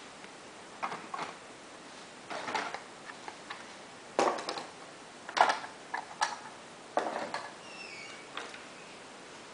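About a dozen light, irregular clicks and clacks of small hard parts, the way toy train pieces sound when handled on the track. A short faint chirp comes near the end.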